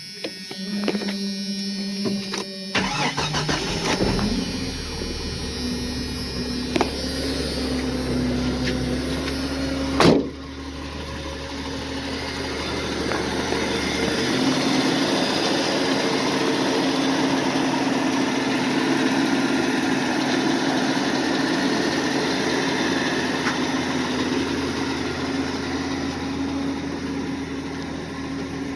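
1991 Jeep Comanche pickup's engine cold-starting: the starter cranks for about three seconds before the engine catches and settles into a steady idle. There is one sharp knock about ten seconds in, and the idle's note changes about fourteen seconds in, then holds steady.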